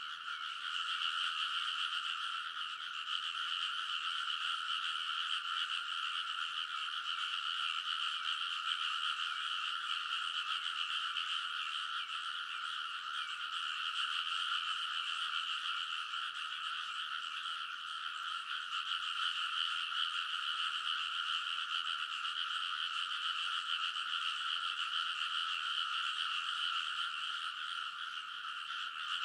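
A large chorus of frogs in a rice paddy calling all at once, many overlapping croaks merging into a steady, unbroken din.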